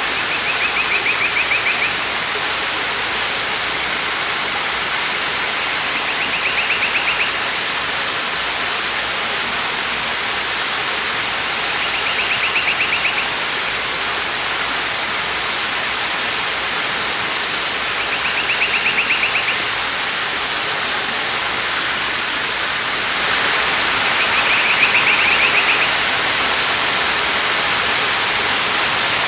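Waterfall's steady rushing water, growing a little louder about three-quarters of the way through. Over it, a bird's rapid high trill about a second long repeats every six seconds, five times.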